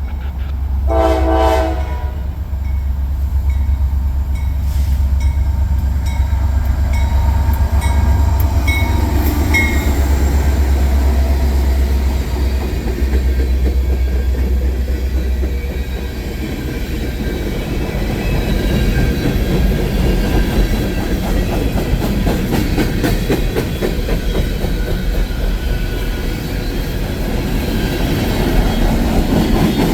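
A passing freight or passenger train: a short locomotive horn blast about a second in over the locomotive's low diesel rumble. The rumble fades after about a dozen seconds, and the rattling clickety-clack of the cars' wheels on rail joints takes over as the train rolls by.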